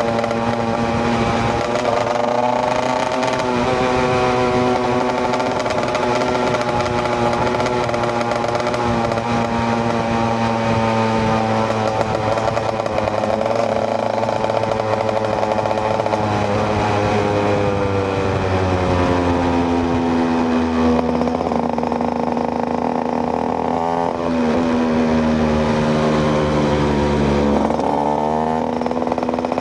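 KTM EXC 125 single-cylinder two-stroke motorcycle engine running under way. The revs hold fairly steady at first, then fall and pick up again a few times in the second half.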